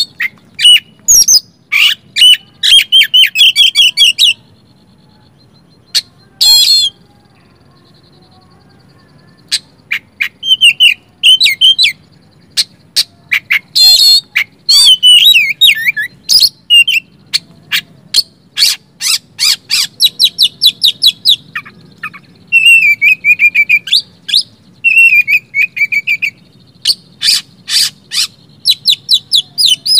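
Oriental magpie-robin (kacer) singing loudly in rapid bursts of varied whistles, chirps and sharp clicking notes. It falls silent for several seconds after about four seconds in, then sings almost without a break.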